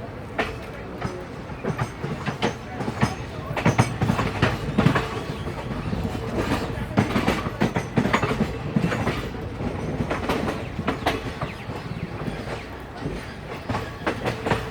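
Arriving express train's coach wheels clattering over rail joints and points, an irregular run of sharp clacks over a steady rolling rumble, loudest about four to five seconds in.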